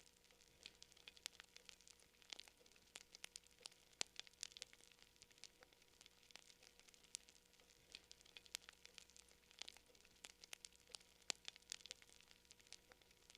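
Campfire crackling: irregular sharp pops and snaps, several a second, over a faint hiss.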